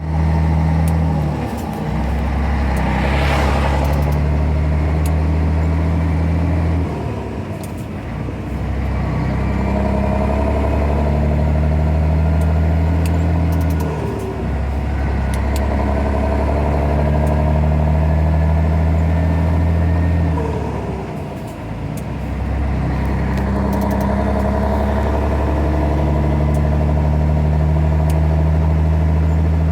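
Scania 113H truck's 11-litre six-cylinder diesel running under load in long steady stretches. About every seven seconds the drone drops briefly, as at gear changes through its 13-speed gearbox. A short hiss comes about three seconds in.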